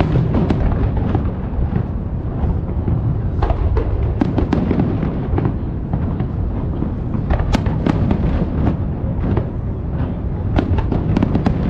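Fireworks display: a continuous low rumble of booming shells with many sharp cracks and crackles layered over it, coming thickest in volleys about a third of the way in, past the middle, and near the end.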